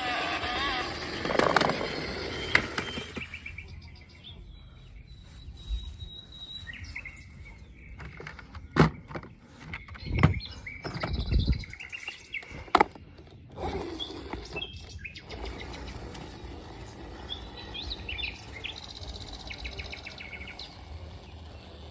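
Birds chirping intermittently, with a run of sharp knocks and clicks in the middle.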